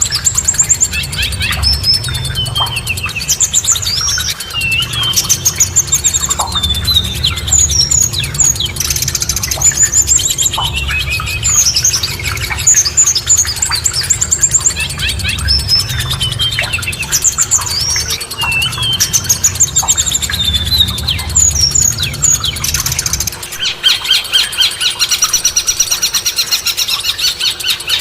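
Songbird song: quick whistled phrases with sweeping, slurred notes and chirps, over a low background rumble. About 23 seconds in, the rumble drops away and a different song of rapid, closely repeated notes takes over.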